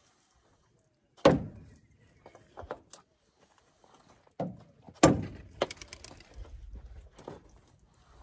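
Hand tools and parts knocking and clicking while an oil filter or drain plug is being refitted: a loud knock about a second in, two more about four and five seconds in, and smaller clicks and a rattle between them.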